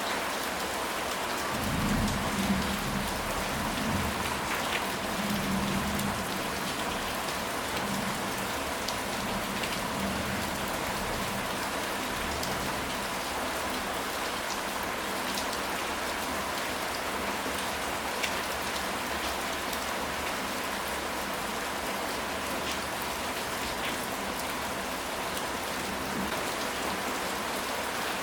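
Steady rain falling, an even hiss with scattered drop ticks. A low rumble of distant thunder rises and fades between about two and six seconds in.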